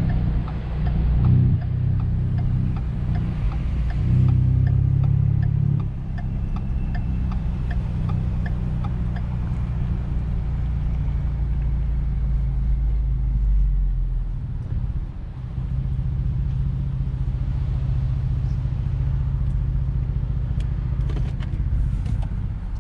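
Ford F-150's 3.5-litre twin-turbo EcoBoost V6 running, heard from inside the cab as a low rumble that swells briefly twice in the first six seconds and dips for a moment past the middle, with faint regular ticking over it.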